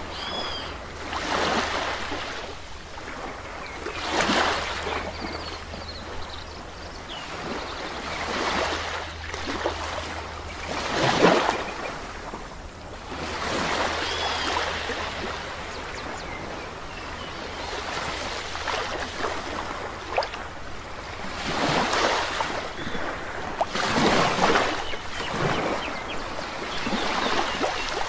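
Small waves breaking and washing up a shore every few seconds, each surge swelling and fading. A few short bird calls sound over the surf.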